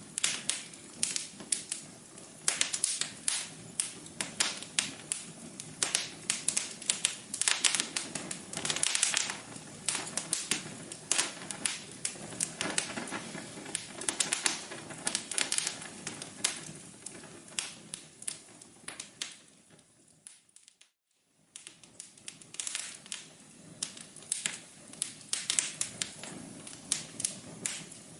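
Wood fire crackling in a fireplace: a steady run of irregular sharp pops and snaps over a low hiss. The crackle briefly fades out about three-quarters of the way through, then picks up again.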